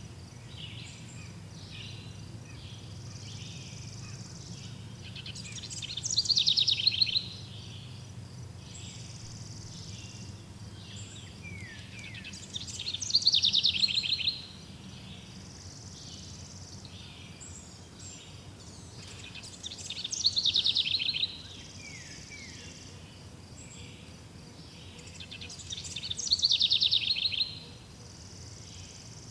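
A songbird repeats a loud, rapid phrase of high falling notes four times, about every seven seconds. Constant fainter high chirping runs behind it, with a low steady hum.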